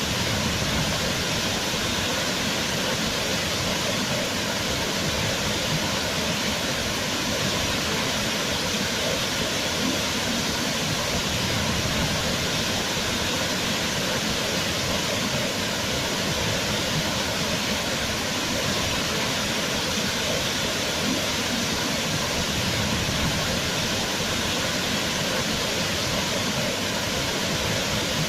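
Waterfall: water falling and splashing in a steady, dense rush with no pauses or changes.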